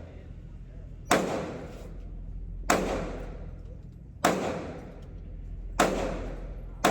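Glock 19 9mm pistol fired five times in slow, steady single shots about one and a half seconds apart, each crack trailing off in a short echo.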